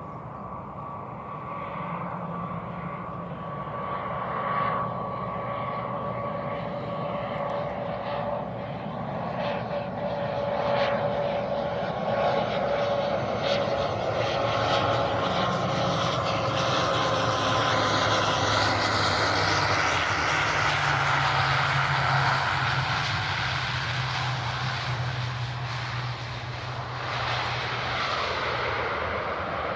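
ATR72-600 twin turboprop with Pratt & Whitney PW127 engines, approaching and landing. A steady propeller-and-engine drone with a whine grows steadily louder as the aircraft comes closer, then stays loud through the middle and later part.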